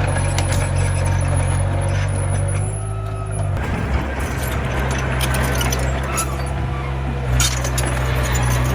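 Komatsu mini bulldozer's diesel engine running steadily, its note changing about three and a half seconds in, with scattered clanks and knocks over it.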